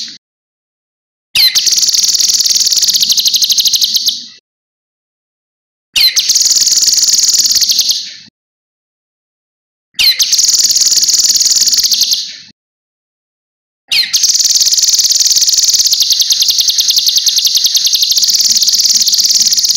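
Cucak kinoi songbird singing a rapid, high, run-on trill in four bursts of a few seconds each, with dead silence between them.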